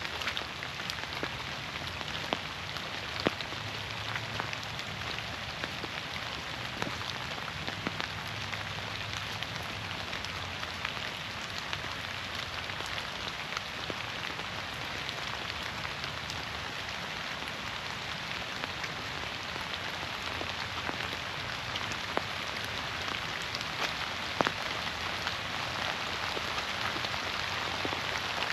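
Steady rain falling through forest trees, an even hiss with many scattered sharp drips and a few louder single drops.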